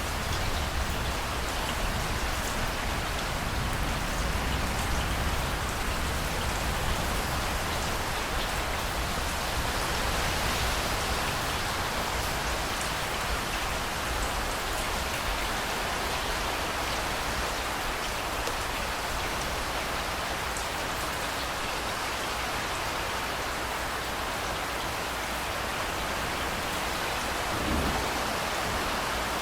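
Steady heavy rain falling and splashing on surfaces, an even hiss with a low rumble underneath. A brief low thump sounds near the end.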